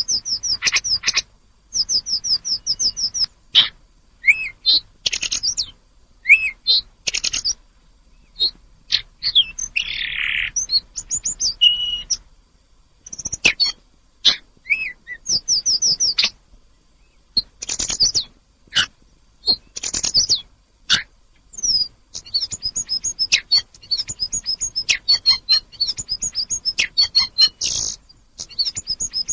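Tledekan gunung songbird singing in quick phrases of high chirps and rapid trills, with short pauses between phrases and a harsher buzzy note partway through.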